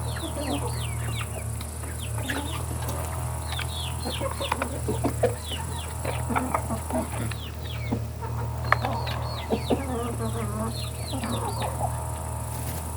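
A flock of chickens clucking, with many short, high, falling peeps in quick succession, over a steady low hum.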